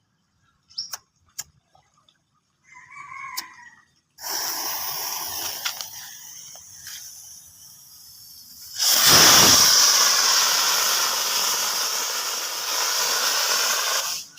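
Bang fai, a homemade black-powder rocket, lit while tied to a boat's stern: after a few clicks, it hisses and sputters from about four seconds, then the motor fires fully near nine seconds with a loud, steady rushing hiss that cuts off suddenly near the end.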